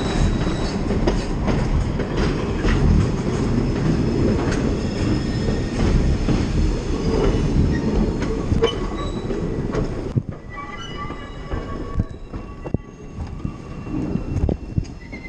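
Passenger cars of a train rolling past close by: a loud low rumble of wheels on rail with thin wheel squeal above it. About ten seconds in the rumble drops away sharply as the cars pass, leaving fainter high squealing.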